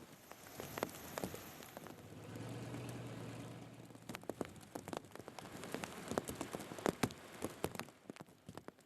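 Rain falling, with many sharp drops hitting close by. A low, steady hum swells up about two seconds in and fades out about four seconds in.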